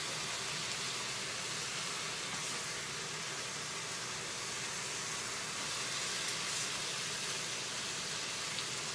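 Chicken pieces and sliced onion sizzling steadily in a frying pan as they are sautéed, with a few faint scrapes as a ladle stirs them.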